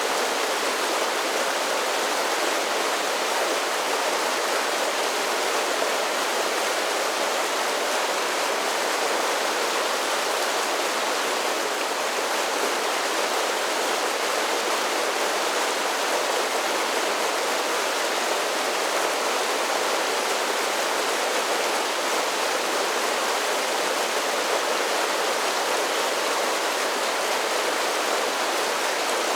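Mountain creek tumbling down a series of falls: a steady, unbroken rush of water, with little deep rumble.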